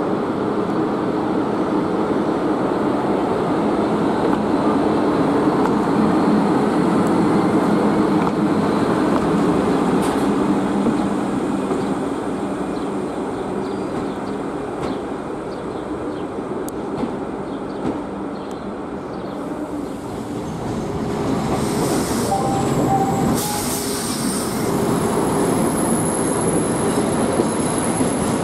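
SNCF BB 22200 electric locomotive running light, a steady hum from its motors and blowers over the rumble of its wheels on the track. About two-thirds of the way in, passenger coaches roll past close by, their wheels squealing, with a thin high squeal held near the end.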